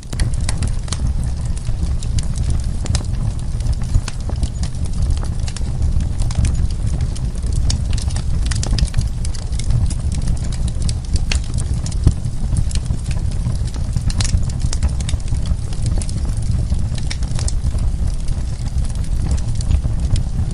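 Wood fire crackling, with frequent sharp irregular pops and snaps over a steady low rumble of the burning logs.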